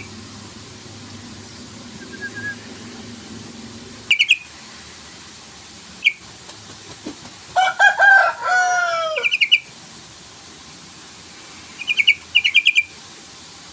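Yellow-vented bulbul (trucukan) calling in short bursts of quick, bubbly notes, several times. Near the middle comes a louder, lower call of a few falling notes.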